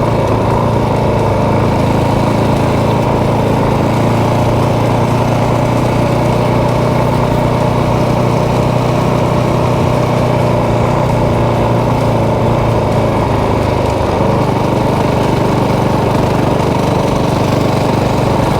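Motorcycle engine running at a steady low speed, its note holding nearly constant.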